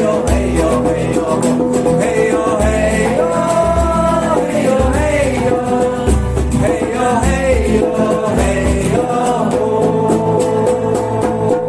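A chant sung over strummed guitar chords with a steady low beat.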